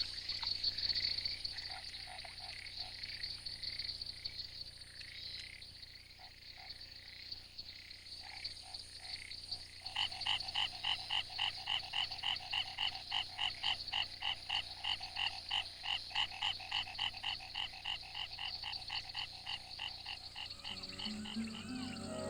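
A chorus of frogs calling, over a steady high-pitched trill. From about halfway, one loud call repeats in a regular pulse, about four times a second. Music fades in near the end.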